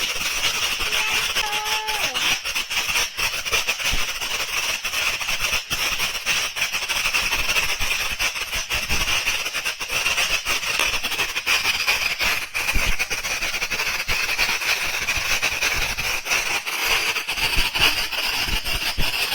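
Ground firework fountain spraying: a steady high hiss with a shrill whistling edge and dense crackling pops throughout, the sound of its "zips" (flying-fish effects).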